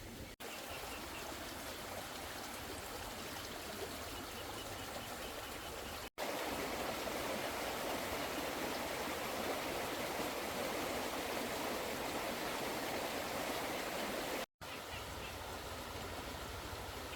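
Steady rushing water, broken by abrupt cuts about six seconds in and again near the end; the middle stretch is the loudest.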